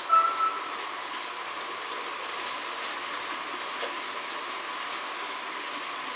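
H0 scale model trains running: a steady whir of small motors and wheels with faint clicks over the track. A short, loud high-pitched tone sounds at the very start.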